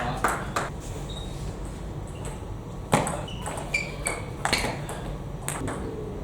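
Table tennis ball being struck by rackets and bouncing on the table, an irregular series of sharp clicks with the loudest about three seconds in.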